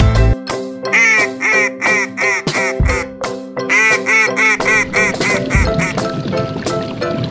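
Duck quacking in two quick runs of about seven to nine quacks each, roughly three or four a second, with a short break near the middle, over background music.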